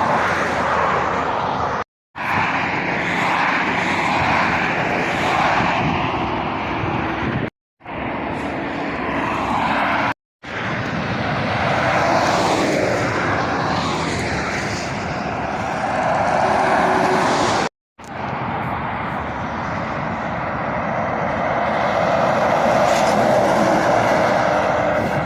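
Lorries and cars passing on a busy main road: a steady rush of tyre and engine noise that swells and fades as vehicles go by. The sound cuts out abruptly four times, for a split second each, at edit joins.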